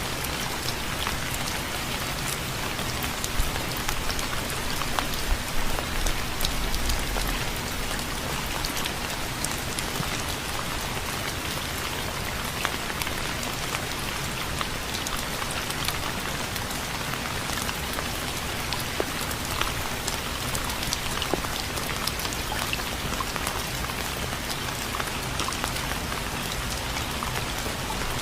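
Steady rain falling, with many separate drops ticking sharply over the constant hiss.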